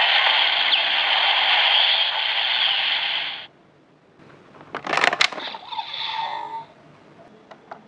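DX Grease Blizzard Knuckle toy's small speaker playing a steady hissing sound effect that cuts off sharply about three and a half seconds in. A few seconds later come a quick cluster of clicks and a shorter, fainter sound from the toy.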